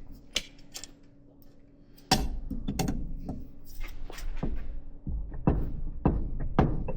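Metal hand tools knocking and clicking against the wheel hub assembly as it is worked loose from the spindle: about eight sharp, irregular knocks with low handling rumble from about two seconds in.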